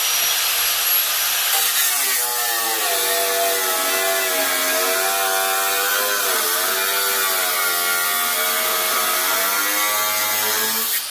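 A power tool cutting the car's sheet-metal floor for the transmission tunnel. It starts as a steady noisy hiss, then from about two seconds in becomes a droning pitched whine that dips briefly past the middle.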